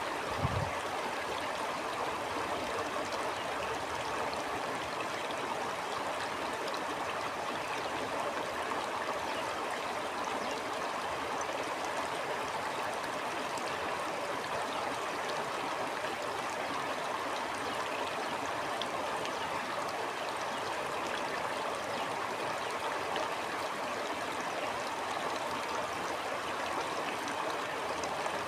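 A stream flowing, a steady, even rush of water with no change throughout. A brief low thump sounds just after the start.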